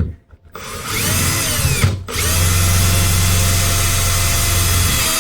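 Power drill running in two bursts: a short run of about a second and a half that changes pitch as it speeds up and slows, then a longer steady run of about three seconds that stops near the end.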